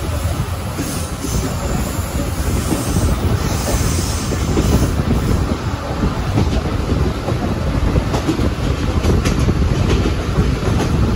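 A 12-series passenger coach train running on the rails: a steady low rumble of the wheels, with a few sharp clicks near the end.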